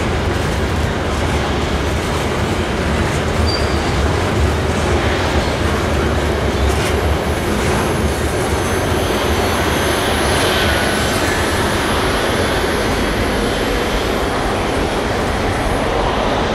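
Freight train rolling past: a steady rumble of rail cars on the track, with a brief wheel squeal about ten seconds in.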